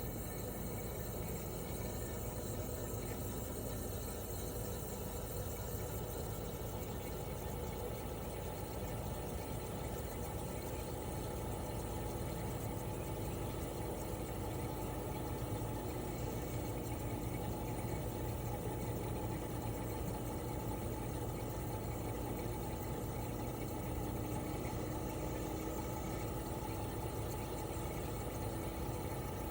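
Toshiba RAS-285BAD mini-split outdoor unit running in cooling mode: its inverter-driven twin rotary compressor and propeller fan make a steady, even hum. One tone in the hum climbs slowly in pitch over the second half.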